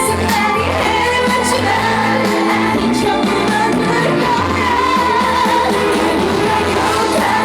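Live dance-trot song: a woman singing over upbeat amplified backing music with a steady beat.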